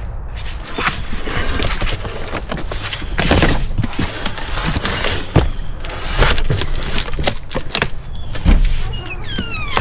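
A large, heavy cardboard box being handled and shifted, with irregular thuds and knocks and cardboard scraping, and a short falling squeak near the end.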